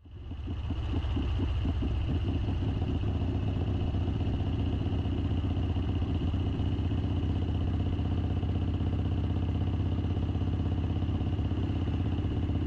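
Harley-Davidson V-twin motorcycle engine running steadily as the bike rides along, fading in over the first second.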